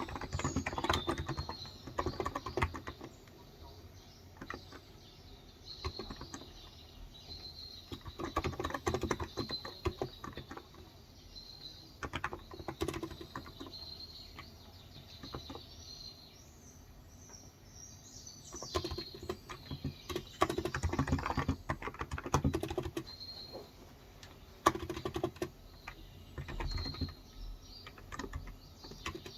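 Typing on a Cox Endeavour electrostatic capacitive tenkeyless keyboard with light 35 g keys, in bursts of rapid keystrokes separated by short pauses. Birds chirp in the background, short repeated chirps with a few sweeping calls midway.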